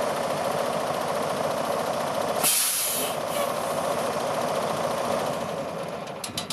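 A steady mechanical running hum, with a short burst of air hiss about two and a half seconds in and a few sharp clicks near the end.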